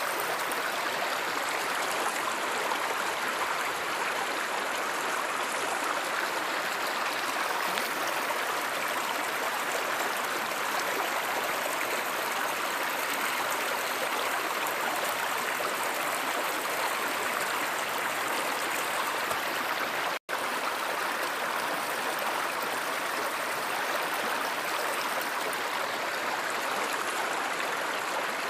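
Stream water flowing with a steady rushing sound, broken by a split-second dropout about twenty seconds in.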